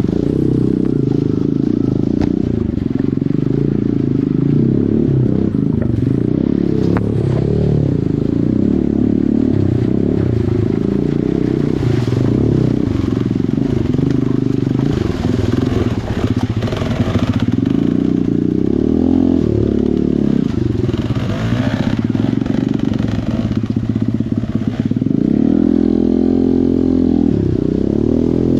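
Small dirt bike engine running and revving up and down in pitch while riding over rocks, with scattered knocks and clatter.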